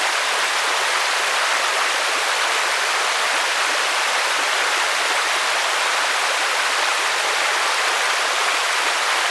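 Heavy rain falling on a lake's surface, a steady unbroken hiss of drops on water.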